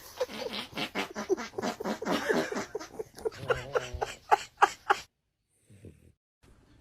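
A dog giving a fast run of short yelps or barks, about four or five a second, louder near the end, that cuts off abruptly about five seconds in.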